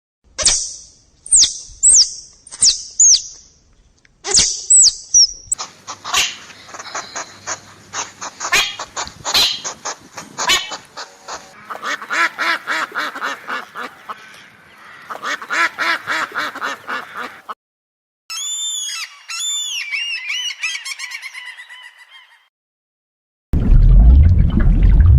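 A string of different bird calls cut one after another: high falling chirps, rapid chattering, ducks quacking and a repeated warbling phrase. Near the end a loud rushing noise cuts in.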